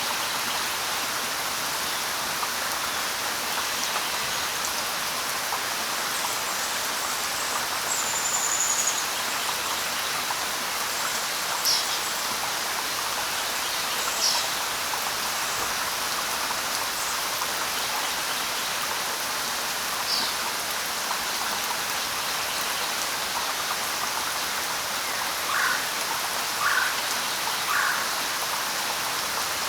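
Light rain falling steadily on leaves, with scattered short bird calls over it: a brief high whistle, a few sharp chirps, and near the end three lower calls about a second apart.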